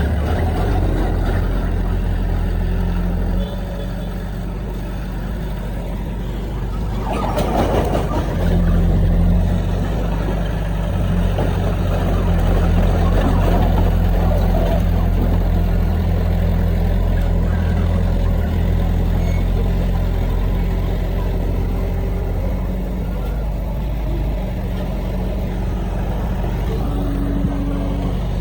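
Heavy diesel earthmoving machinery running steadily, a deep engine hum that drops a little about three and a half seconds in and rises again. A short burst of noise comes about seven seconds in.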